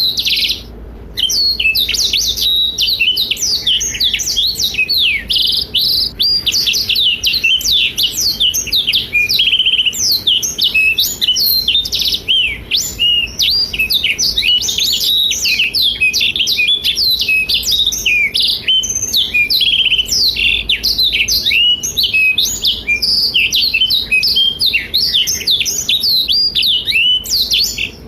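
Black-throated canary (blackthroat) singing a long, fast, nearly unbroken song of twittering chirps and trills, with a short pause about a second in and another near the end.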